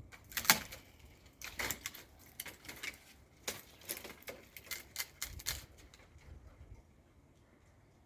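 A run of irregular light clicks and knocks, as of objects being handled. It is loudest just after the start and stops about seven seconds in.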